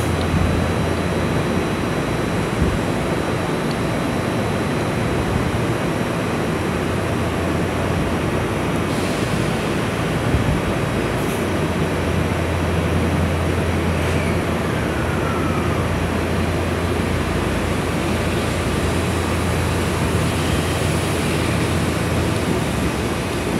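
Electric commuter train standing at a platform with its doors open, its onboard equipment running with a steady hum. A deep drone cuts out after about four seconds and comes back for a long stretch in the middle.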